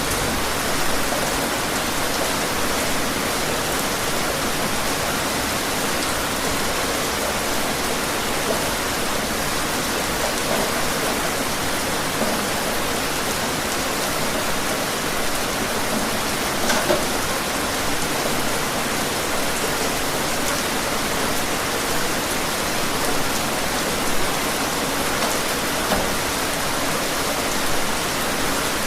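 Steady rain falling outside, an even hiss with now and then a louder drop tick.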